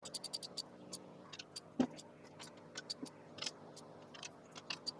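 Ratchet clicking as bolts on a rear axle assembly are snugged down tight, a quick run of clicks at first, then irregular clicks with a single louder knock about two seconds in.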